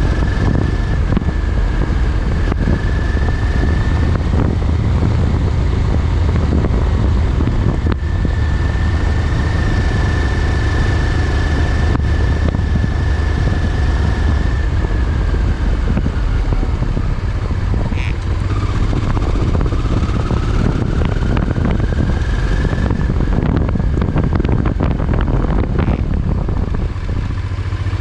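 Motorcycle being ridden at a steady pace: the engine running under heavy low wind rumble on the microphone. A thin high whine holds, dips a little past the middle and climbs back again.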